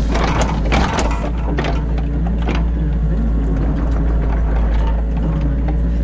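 New Holland E50.2 mini excavator's engine running steadily, heard from inside the cab, with a crunching scrape in the first second and scattered knocks as the bucket works the ditch.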